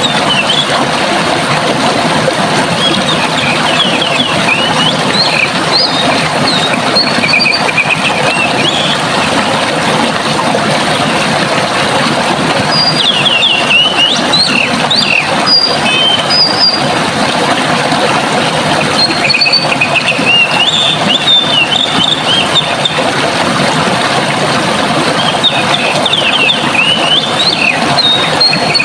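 Running water rushing steadily, with a songbird singing through it in repeated bursts of quick, high chirps and trills, pausing for a few seconds between phrases.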